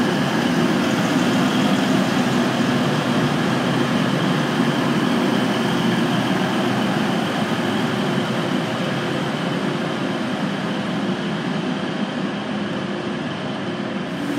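TransPennine Express Class 185 diesel multiple unit running along the platform: a steady sound of its diesel engines and wheels that slowly fades as the train draws away.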